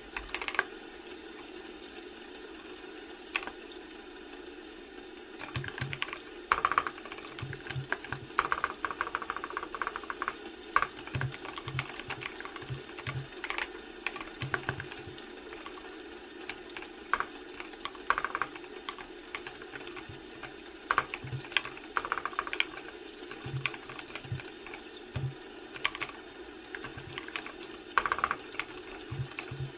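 Typing on a computer keyboard: quick runs of key clicks in bursts with short pauses between them, over a steady low background hum.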